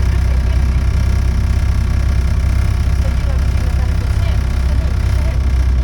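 Volvo B7TL bus's six-cylinder diesel engine running at steady revs, heard from on board, with the rasp of a blown exhaust.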